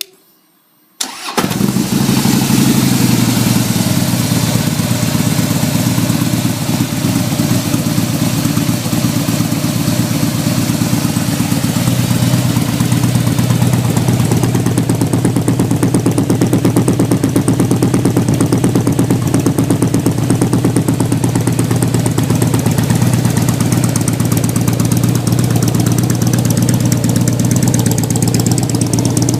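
Harley-Davidson Softail Deluxe V-twin started about a second in, then idling steadily and very loud through a Freedom Performance Racing exhaust run without baffles.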